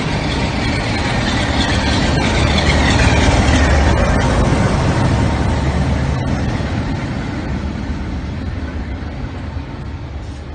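Charter train passing along a station platform: the rumble of coaches running by, with the low drone of a Class 57 diesel locomotive. The noise builds to its loudest about three to four seconds in, then slowly dies away.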